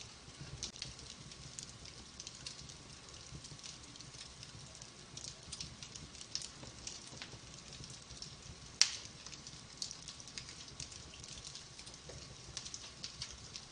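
Wood fire in a fireplace crackling, with frequent small pops and one louder, sharper pop about nine seconds in.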